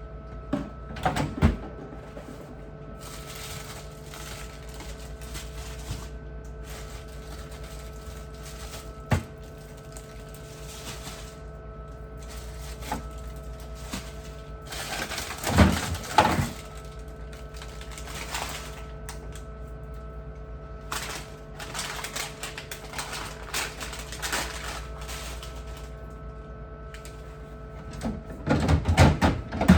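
Handling noises while cleaning out a refrigerator: scattered knocks and clatter with stretches of rubbing, over a steady hum. The loudest clatter comes about a second in, again about halfway through and near the end.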